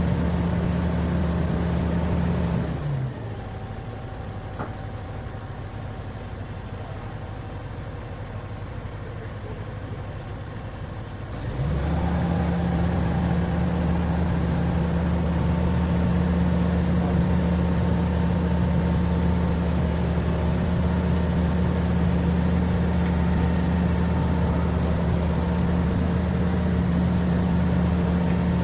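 Diesel truck engine running steadily. About three seconds in its speed drops and it goes quieter, and about eight seconds later it climbs back up and runs steadily again.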